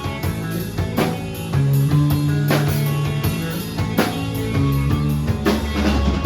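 Live math-rock/emo band playing an instrumental passage: electric guitar and bass notes over a drum kit with steady cymbal strokes and a heavy drum hit about once a second.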